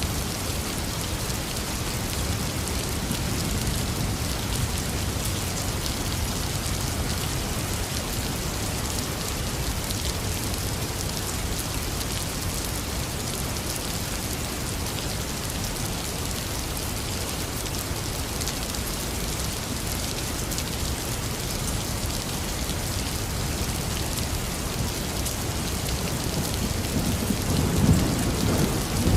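Heavy rain falling steadily, a dense hiss of drops hitting surfaces. Near the end a rumble of thunder builds in.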